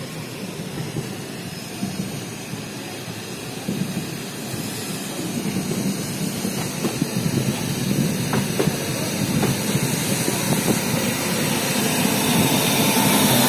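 A train hauled by a WAG-9 electric locomotive approaching along the platform, its running noise growing steadily louder, with scattered wheel clicks over the rails in the second half.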